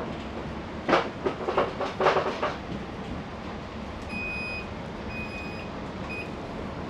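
Passenger train carriage at a standstill, its engine running with a steady low hum. About a second in comes a short burst of loud clattering knocks, then near the end three high electronic beeps of the door warning.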